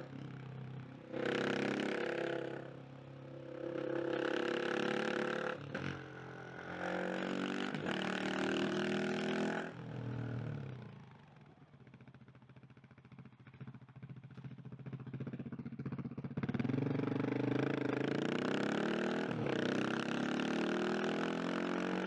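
KTM 690 SMC R single-cylinder motorcycle engine under way: several runs of rising revs through the gears, then closed throttle with the engine dropping to low revs for a few seconds around the middle, before it pulls away again with revs climbing.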